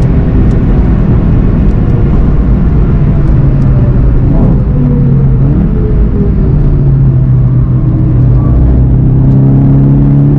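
Volkswagen Golf GTI TCR's turbocharged four-cylinder engine under hard braking from high speed, its pitch falling, with a quick rev about four and a half seconds in. It then pulls steadily at lower revs through the corner, over constant wind and tyre noise.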